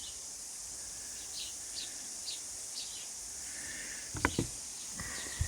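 Outdoor ambience: a steady high hiss with a few faint, short high chirps in the first few seconds, then a couple of brief knocks about four seconds in and just before the end.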